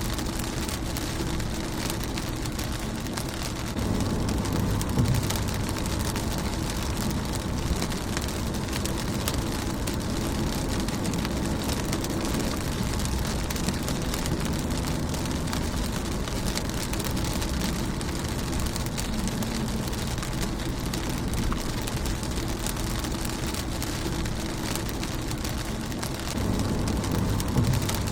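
Steady rain falling on a car's windshield and body: a dense, even patter of drops. Under it runs a low rumble that grows louder about four seconds in and again near the end.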